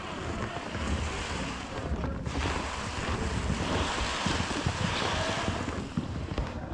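Wind buffeting the microphone: a steady rushing with uneven low rumble, growing stronger about two seconds in.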